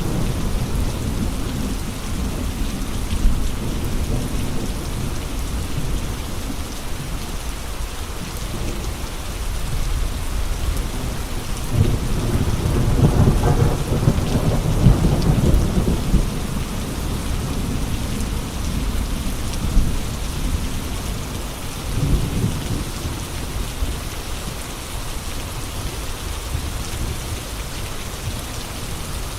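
Steady heavy rain with gusting wind, the low rumble swelling up strongly about halfway through and again briefly a little later.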